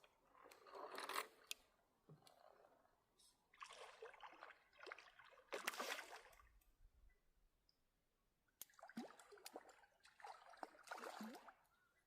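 Faint short sloshing and trickling water sounds, about five brief bursts separated by quiet spells.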